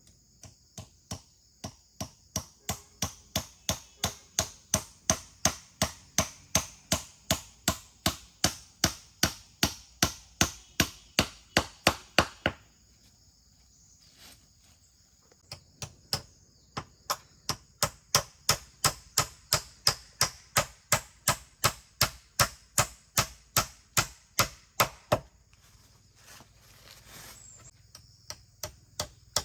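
Fast, even blows, about three a second, in two long runs with a pause of about three seconds between them, over a steady high insect drone.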